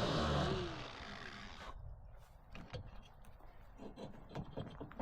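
A Metabo 6-inch angle grinder is released after cutting through a seized steel shackle, and its whine falls in pitch as the disc spins down over about a second and a half. A few light knocks and clinks follow.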